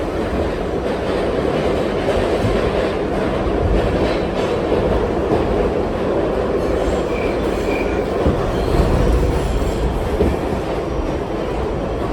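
R68 subway car running along the track, heard from on board: a steady rumble of wheels and motors, with two faint short high squeals about seven to eight seconds in.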